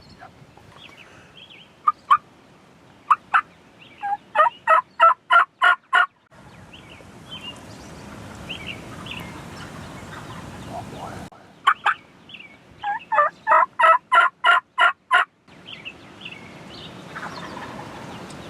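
Turkey yelping: two loud series of about eight evenly spaced yelps each, with fainter short turkey calls between them.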